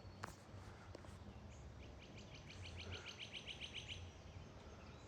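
Faint bird trill: a rapid run of short, evenly repeated notes, about ten a second, lasting under two seconds midway through, over a low steady outdoor rumble.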